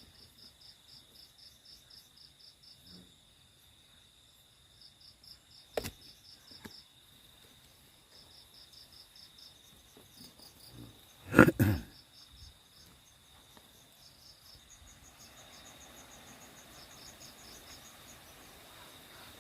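Night insects, crickets chirping in rapid high pulses over a steady high-pitched insect trill. A sharp click comes about six seconds in, and a loud knock or thump about eleven seconds in.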